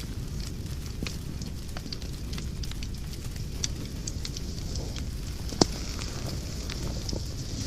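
Wood fire burning in a fireplace: a steady low rumble of flames with frequent sharp crackles and pops, one louder pop a little past the middle.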